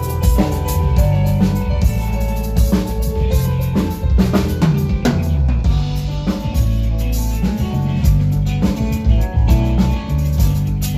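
Live band soundcheck: a drum kit playing busy kick and snare hits with rimshots, over pitched instrument notes.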